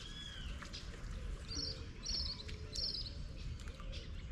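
Small birds calling: a couple of short chirps at the start, then three short buzzy trills about half a second apart, over a steady low rumble.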